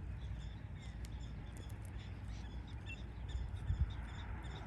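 Scattered short, high chirps from a prairie dog colony, several each second, over a steady low wind rumble on the microphone.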